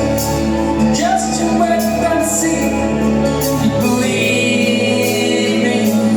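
Live band playing a soft-rock ballad, with sustained chords and a sung vocal line over them.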